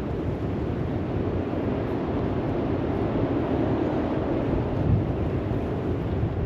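Wind buffeting the microphone outdoors: a steady low rush, with a stronger gust about five seconds in.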